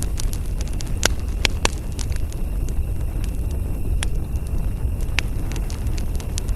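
Campfire crackling, with scattered sharp pops, a few louder ones close together between one and two seconds in, over a steady low rumble.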